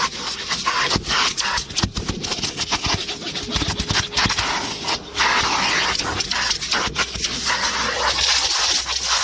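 Numatic Henry HVR200-22 vacuum cleaner running, its nozzle scraping and sucking over the car's carpet and upholstery. The rush of air keeps flickering and dipping as the nozzle is pushed, lifted and partly blocked.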